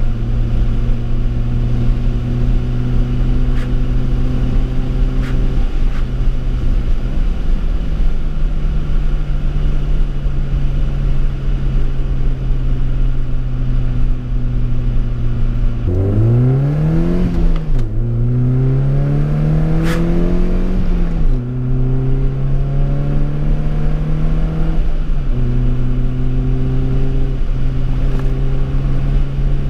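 BMW E30 318i's four-cylinder engine, fitted with a sport exhaust, heard from inside the cabin while cruising at steady revs. About halfway through it accelerates hard: the revs climb, drop at a gear change, climb again, then drop back to a steady cruise.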